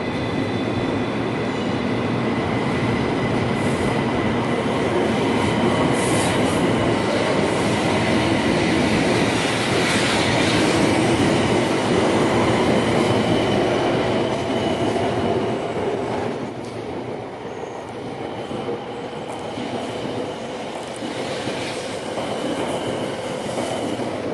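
Tokaido Shinkansen train moving along a station platform: the rumble of its cars with a steady high whine over it. It swells to its loudest midway, then falls away about two-thirds of the way through.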